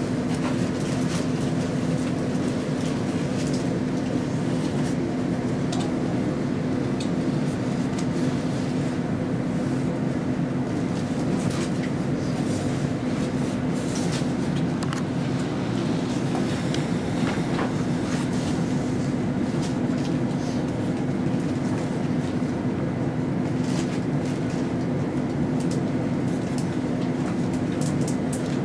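Inside an SL X10p electric railcar standing at a platform: a steady hum from the onboard equipment while the train waits, with a few faint clicks.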